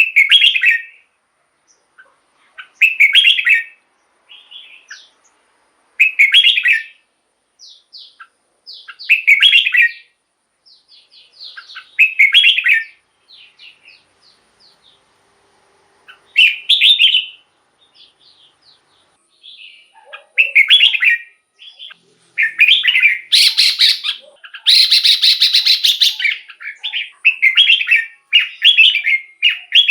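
Red-whiskered bulbul singing short, bright song phrases about every three seconds. From about twenty seconds in the phrases come faster and closer together, with a longer harsh, buzzy stretch near the twenty-five second mark.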